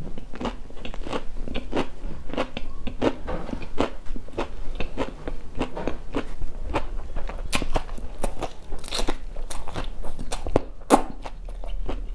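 Close-miked crunchy chewing of singju, a raw shredded vegetable and herb salad, with many quick, irregular crisp crunches.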